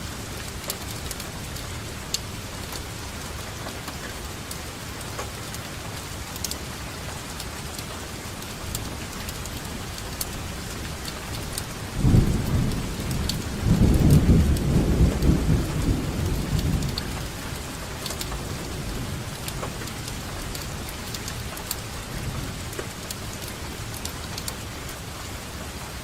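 Steady rainfall with scattered sharp drop ticks. About halfway through, a clap of thunder breaks in and rolls for several seconds before fading back under the rain.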